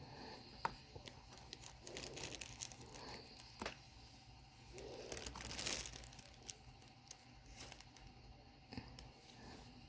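Crinkling and rustling of small craft pieces being handled, with scattered sharp clicks and taps and a longer crinkle a little past the middle.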